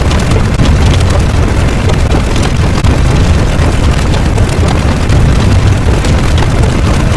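A loud, steady rumble of dense noise, heaviest in the low end, with no clear tone or rhythm.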